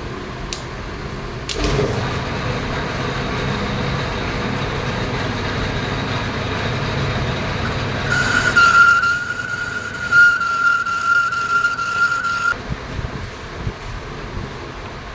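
Metal lathe running with a knock as it starts up, then a steady high-pitched squeal of about four seconds from the cutting tool on the turning workpiece.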